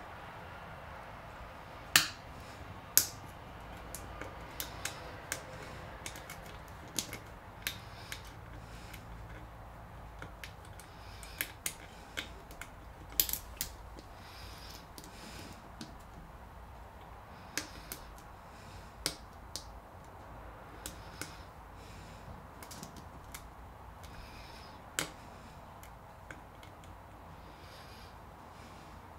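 Single pin picking a Lockwood pin-tumbler padlock: the pick and tension wrench making irregular, scattered metallic clicks as the pins are lifted and set, a few much louder than the rest.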